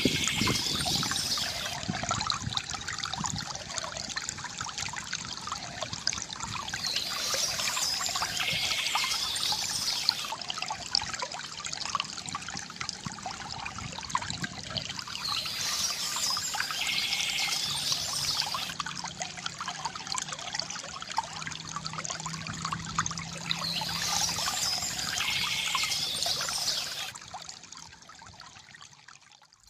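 Water from a bamboo fountain trickling and gurgling steadily, surging a little about every nine seconds, then fading down near the end.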